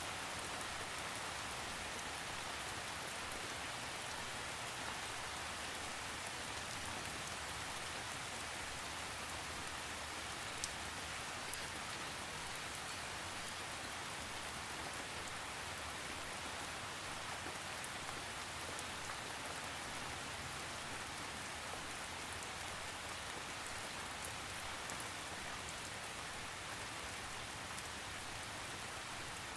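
Steady rain falling on a surface, with a dense even hiss and scattered individual drop ticks, no thunder.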